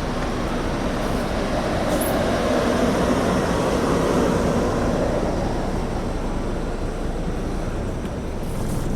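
Scania K310 bus diesel engine running steadily, with a swelling rumble that builds to a peak about four seconds in and then eases off.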